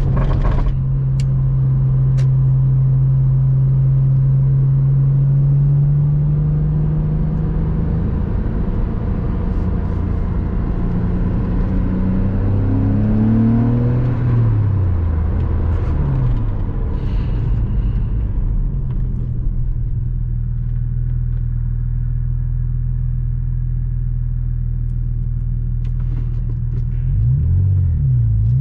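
Porsche Boxster 986's flat-six engine driving along: a steady drone, then engine speed climbing about halfway through and dropping sharply a couple of times, before settling back to a steady, lower cruise, with a short dip and rise near the end.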